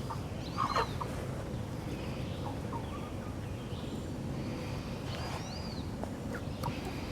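Live chickens giving a few short, separate chirps and clucks over a steady low background noise.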